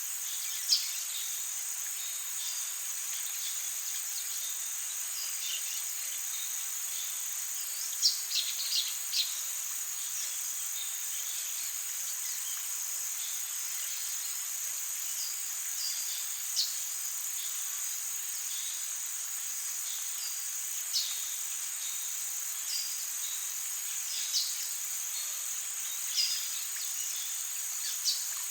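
Amazon rainforest ambience: a steady high-pitched insect chorus, with short, sharp downward-sweeping bird calls every few seconds and a quick cluster of them about eight seconds in.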